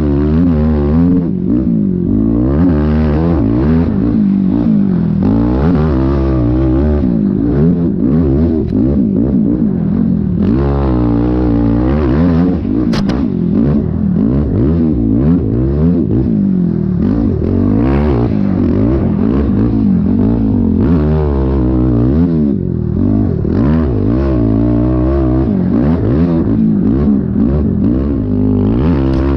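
Yamaha YFZ450R sport quad's single-cylinder four-stroke engine being ridden hard, its pitch rising and falling every second or two as the throttle is opened and shut over and over.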